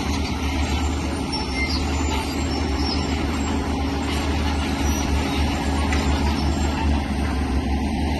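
Heavy earthmoving machinery's diesel engine running steadily under load, a deep continuous rumble with a noisy mechanical clatter over it.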